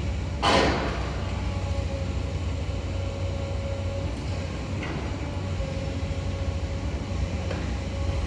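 Demolition excavator running steadily: a low diesel rumble with a constant mid-pitched whine, and one short, loud noisy crash or scrape about half a second in.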